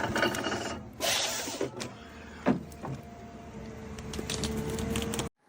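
Tree harvester at work: mechanical clanks and clicks over a steady whine, stopping abruptly near the end.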